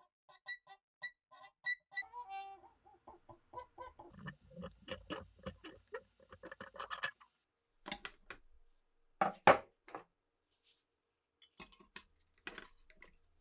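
Small metal rifle parts clicking, tapping and clinking, some ringing briefly with a clear tone, with a louder knock about nine and a half seconds in.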